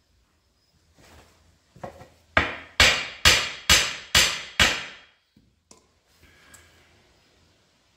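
Hammer blows on a steel Firestone RH-5 split-rim truck wheel, working its ring into place: a couple of light taps, then six hard strikes about half a second apart, each ringing briefly.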